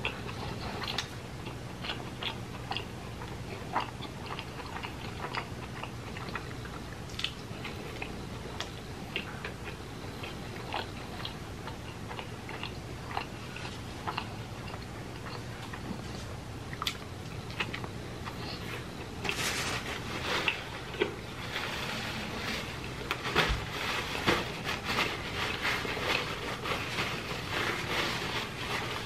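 Close-miked chewing of fried chicken tenders: soft wet mouth clicks and smacks. About two-thirds of the way in, louder, denser crinkling and rustling of a paper wrapper being handled joins the chewing.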